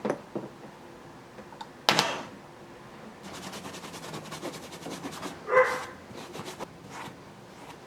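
Light knocks and a run of clattering, like parts being handled on a workbench, with one sharp knock about two seconds in. A single short bark-like call sounds about five and a half seconds in. The starter motor is not running.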